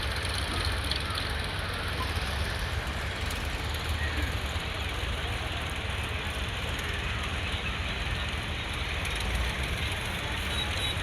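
Tractor's diesel engine running steadily with a low rumble.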